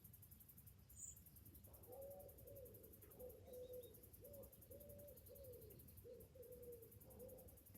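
A bird gives a run of about ten low hooting notes, starting about two seconds in, over a faint, rapidly pulsing high drone of cicadas. A single short high bird chirp comes about a second in.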